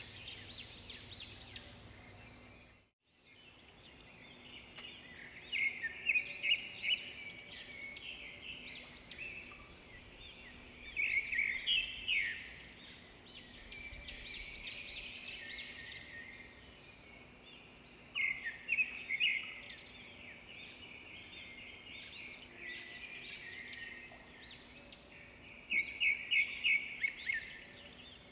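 Songbirds singing, with short bursts of rapid high chirps every few seconds over a softer background of calls. The sound cuts out completely for a moment about three seconds in.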